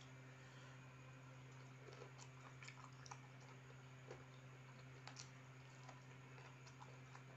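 Faint chewing and small mouth clicks of a person eating rice and fried chicken by hand, mostly in the middle, over a steady low hum.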